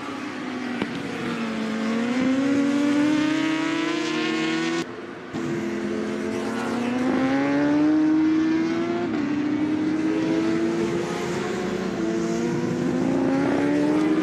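Racing motorcycle engines accelerating hard, the pitch climbing and stepping down at gear changes, with a brief break about five seconds in.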